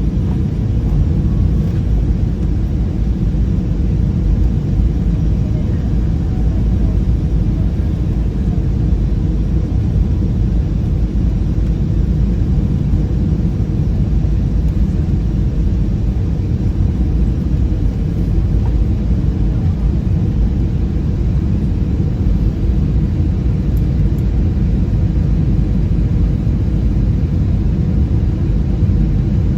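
Steady low rumble of an Airbus A320-216's CFM56 engines and airflow, heard inside the passenger cabin.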